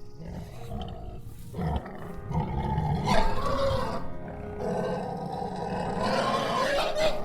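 An animal roaring: long, low, drawn-out calls, loudest about three seconds in and again near the end, over background music.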